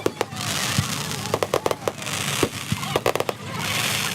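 Fireworks going off: quick clusters of sharp bangs and crackles about every second and a half, with hissing in between.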